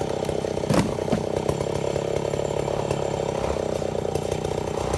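Chainsaw running steadily under load, cutting lengthwise through a mahogany log as it mills slabs, with one sharp knock about a second in.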